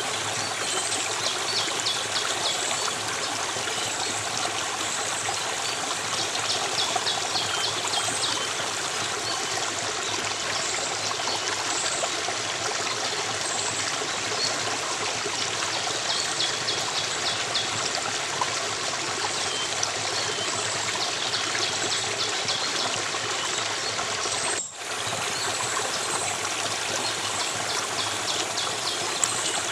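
A stream of water flowing and trickling steadily, with repeated clusters of short, high chirps over it. The sound drops out for a split second about 25 seconds in.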